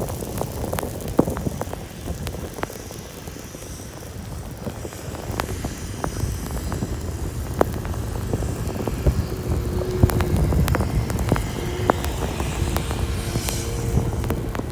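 Car driving through snow: a steady low rumble of engine and road noise, with scattered sharp ticks.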